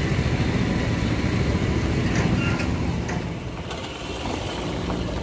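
Engine of a small Maruti Suzuki Alto petrol hatchback running as the car moves off along a dirt road, getting somewhat quieter after about three seconds.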